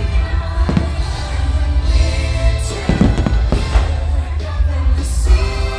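Christmas fireworks-show music playing loudly, with fireworks shells bursting over it several times, a cluster of bangs about three seconds in.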